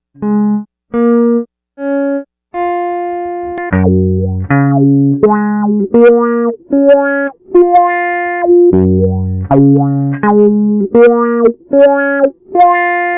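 Guitar music: a few separate picked notes, then from about four seconds in a picked melody over a low bass line.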